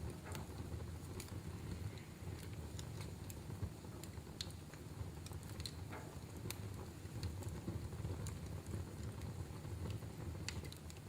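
Wood fire crackling in a fireplace: sharp, irregular pops about once a second over a low steady rumble.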